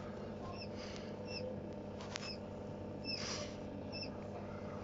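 Newly hatched coturnix quail chicks giving a few short, high peeps, spaced out, over a steady low hum.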